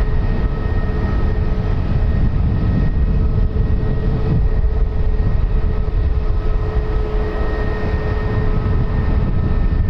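Aircraft engines running: a steady loud rumble with a held whine above it.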